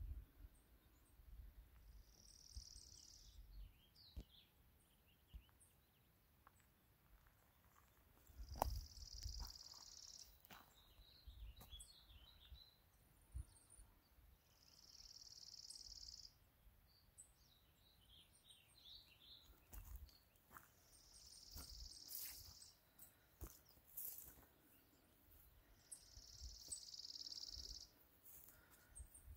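A bird singing faintly, a short high trill repeated about every six seconds, with a few quick chirps after some of the trills. Soft low thuds and rustles of footsteps and handling sound between them.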